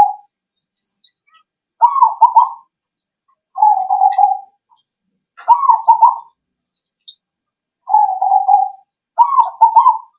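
Zebra dove (perkutut) cooing: phrases about every one and a half to two seconds, a warbling, stuttering coo alternating with a steadier held one. It is a lure song played to get other perkutut to answer.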